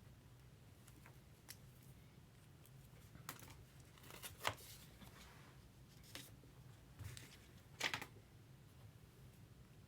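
Faint handling sounds of trading cards and their plastic and paper packaging: a handful of short crinkles and rustles scattered over a low steady hum, the two loudest about four and eight seconds in.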